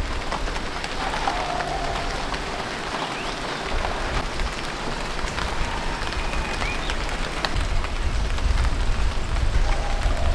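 Steady rain falling, a dense hiss of many small drops, growing heavier near the end.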